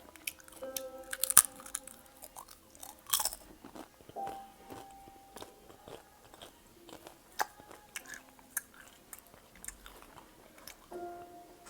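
Close-miked crisp potato chips crunched and chewed. There are loud crunches about one and a half and three seconds in, then scattered softer crackles of chewing. Faint held notes of background music play underneath.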